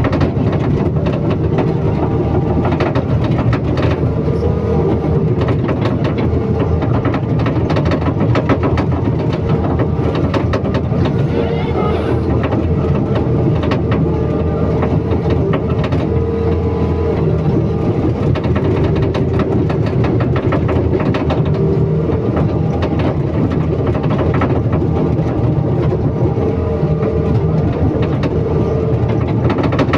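Excavator's diesel engine running steadily, with frequent knocks and rattles from the machine.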